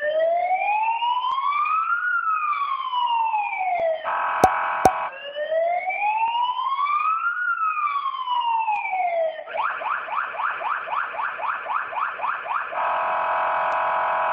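Electronic police siren cycling through its patterns: a slow rising-and-falling wail twice, with a steady horn-like blast between, then a fast yelp, ending on another steady blast. Two sharp clicks sound during the first blast.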